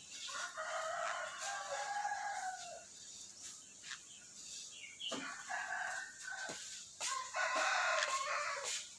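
A rooster crowing three times: one long crow near the start, then shorter crows about five and seven seconds in.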